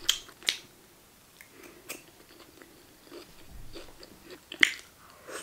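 Close-miked chewing of a mouthful of food: soft wet mouth sounds broken by a few sharp crunches and smacks, the loudest about four and a half seconds in.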